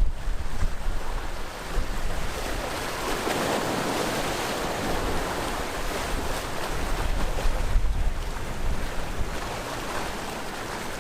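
Sea waves washing in on the shore, a steady surf hiss that swells about three seconds in and then eases off. Wind gusts buffet the microphone with a low rumble now and then.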